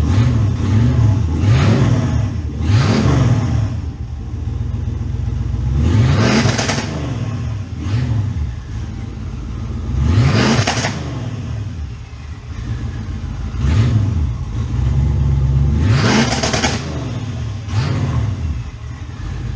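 Car engine revved repeatedly in short blips, about six times, each rev rising in pitch and ending in a brief hiss, with the engine running steadily between revs.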